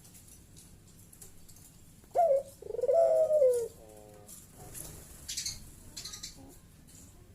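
Puter dove (Barbary dove) giving one loud bekur coo: a short rising note, then a long arched coo with a brief trailing note.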